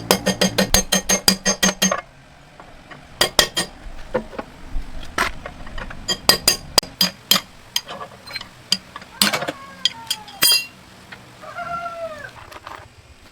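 Metal being struck: about two seconds of quick ringing taps, then scattered sharp clinks. A few short arched animal calls come near the end.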